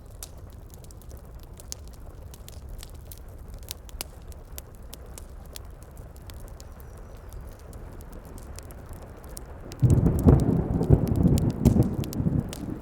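Wood fire crackling with scattered sharp pops over steady rain, then about ten seconds in a loud low rumble of thunder rolls in.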